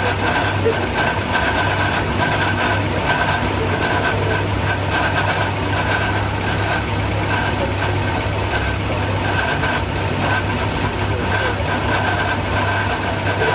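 Ford Pinto 2.1-litre single-overhead-cam four-cylinder engine on twin Weber carburettors, running at a steady speed on an engine dyno. It is loud and even, with no revving, heard inside the dyno cell.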